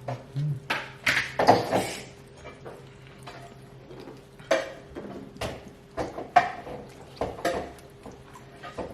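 Plates and cutlery clinking and knocking at a meal, in irregular clatters, the loudest cluster about a second in and more strikes every second or so after.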